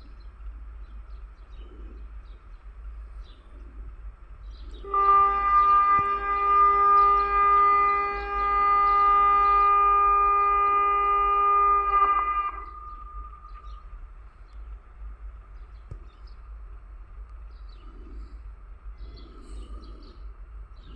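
Diesel locomotive horn sounding one long steady blast of about seven seconds, from about five seconds in, the signal given before a 2TE116 sets off with its train. Before and after the blast there is only a low, steady background rumble.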